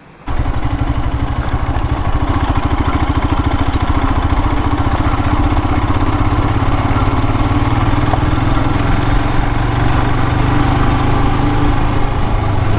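Royal Enfield Himalayan's single-cylinder engine running steadily with an even low pulse, cutting in suddenly just after the start.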